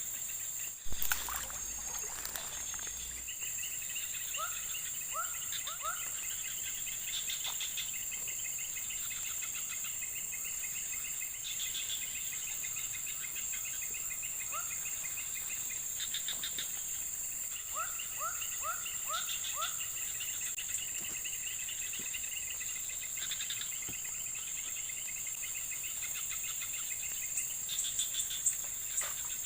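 Chorus of insects: a steady high-pitched buzz with pulsing cricket trills coming and going over it. Scattered groups of three to five short rising chirps from another animal sound now and then, and a single sharp knock comes about a second in.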